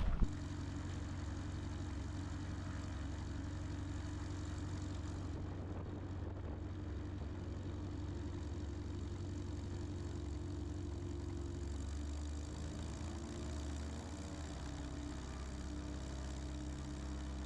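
Light aircraft's piston engine running steadily at low power, its pitch shifting slightly about twelve seconds in.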